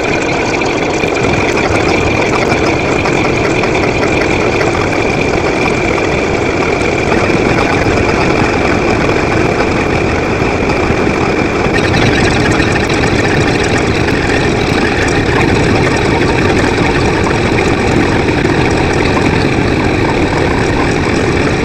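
Loud, steady engine-like running noise with no clear rhythm, shifting slightly in character about twelve seconds in.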